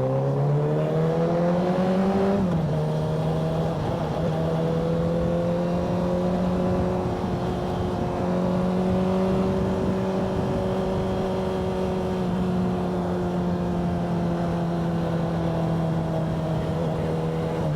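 Motorcycle engine pulling up through the revs, then an upshift about two and a half seconds in drops the pitch. After that it cruises at fairly steady revs, with small rises and falls in pitch.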